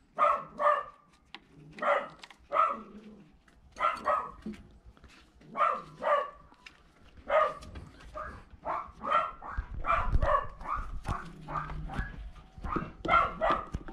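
A dog barking repeatedly, mostly in quick pairs of barks about two seconds apart, with the barks coming faster in the second half.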